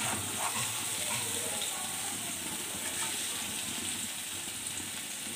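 Small river fish, potato and aubergine frying in mustard oil in an iron karahi: a steady sizzle, with a wooden spatula stirring through the food.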